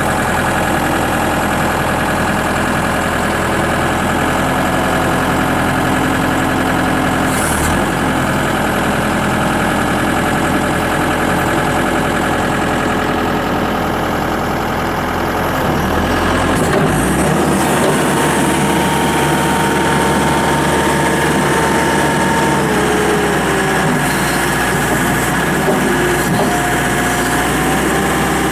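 Case SR220 skid steer loader's diesel engine running steadily, freshly started. About 17 seconds in its note shifts and it gets a little louder.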